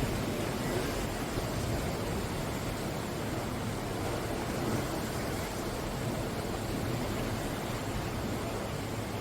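Sea waves breaking and washing on the shore, a steady rush of surf.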